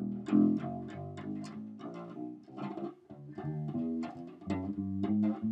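Six-string fretless electric bass played on its low B string: a run of plucked notes at changing pitch, several a second, each with a sharp attack. There is a little fret-board buzz on parts of the string, which the player puts down to the string sitting too low and needing to be raised.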